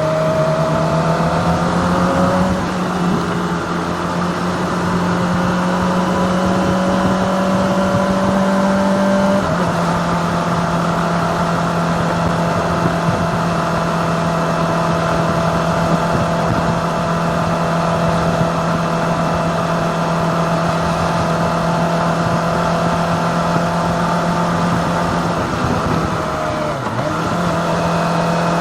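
Kawasaki ZX-25R's 250cc inline-four engine running at steady revs while riding, over a haze of wind and road noise. Its pitch drops suddenly about a third of the way in, and it dips briefly and recovers near the end.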